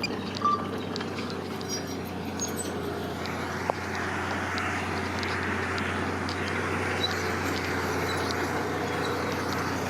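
Engine of a heavy construction machine running steadily with a constant low hum, with a few faint short ticks over it.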